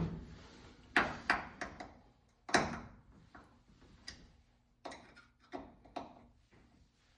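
Irregular knocks and clacks of parts or tools being handled, about ten in all. The loudest come right at the start, about a second in and about two and a half seconds in.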